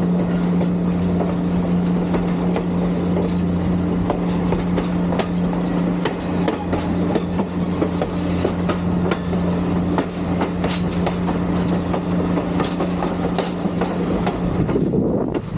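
Western Maryland Scenic Railroad train rolling past, its wheels clicking irregularly over the rails, over a steady drone that stops near the end.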